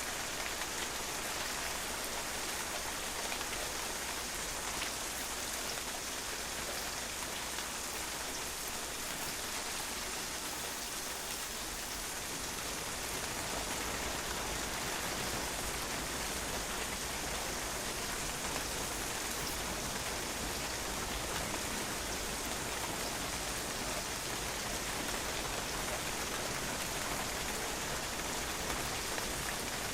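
Steady rain falling on a patio, an even hiss with many small drop impacts.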